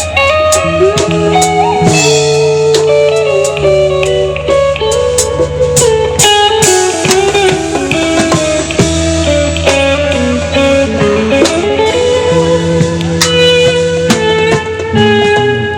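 Live band playing an instrumental passage: a guitar melody with bent notes over bass and drums.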